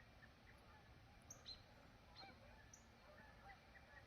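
Faint bird calls: many short calls scattered through the whole stretch, with a few brief higher chirps among them.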